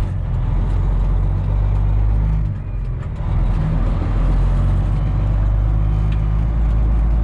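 Semi truck's diesel engine running, heard from inside the cab, with a brief drop in level about two and a half seconds in before it picks back up.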